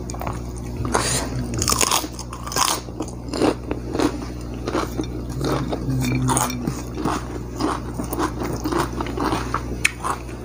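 Close-miked chewing and biting of a meal of fried duck with raw vegetables: irregular crunches and wet chews, a few every second, over a steady low hum.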